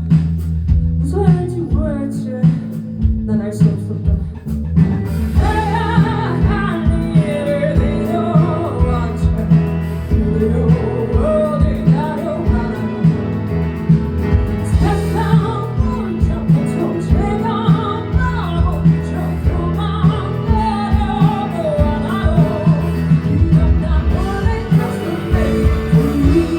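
Live band performing a song: singing over guitar, bass and a steady drum beat, the arrangement thickening into a full band about five seconds in.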